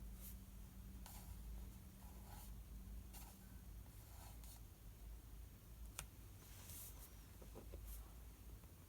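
Faint scratching of writing on paper, short strokes spaced about a second apart, with one sharp click about six seconds in, over a steady low room hum.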